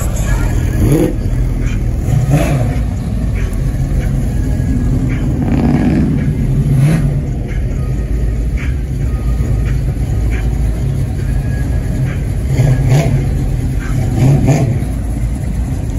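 Car engine rumbling at idle and revved in short blips about five times, the pitch rising and falling with each one.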